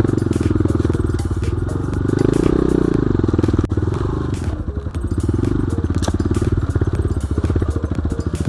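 Enduro dirt bike engine running under load, revving up and easing off several times, with a peak about two to three seconds in, with scattered clicks and knocks as it rides rough ground.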